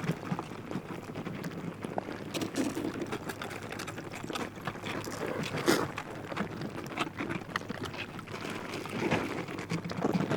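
Spring meltwater in a river, gurgling and splashing with many small irregular splashes and drips over a steady rush.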